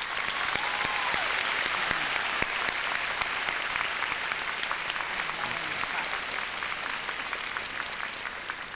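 An audience applauding: many hands clapping steadily, starting suddenly and slowly dying down near the end.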